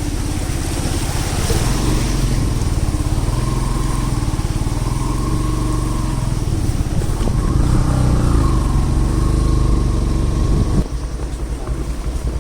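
Motorcycle engine running under way, its pitch drifting up and down a little. The sound drops in level about eleven seconds in.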